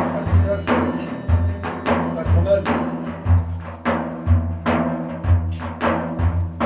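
Instrumental passage of a Sufi devotional praise song: hand drums beat a steady repeating rhythm of deep strokes and sharper strikes over held melodic tones.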